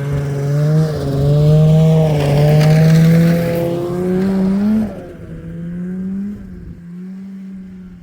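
Snowmobile engine running hard under throttle, its pitch wavering and climbing, then the level drops suddenly about five seconds in and it runs on more quietly at a steady pitch.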